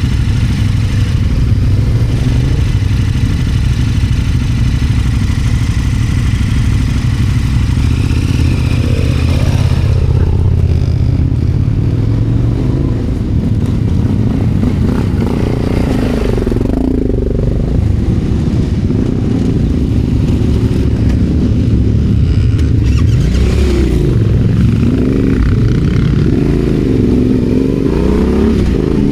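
Adventure motorcycle engine running while riding, steady for the first ten seconds or so, then with the revs rising and falling through the second half.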